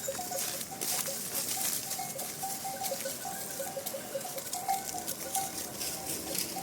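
Livestock bells clinking irregularly, several short notes at a few fixed pitches, as a herd moves, over a background hiss with light crackling.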